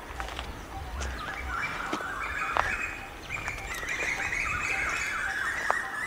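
Birds chattering in the undergrowth: many fast, harsh, overlapping calls. Occasional sharp crackles of dry leaves underfoot come through.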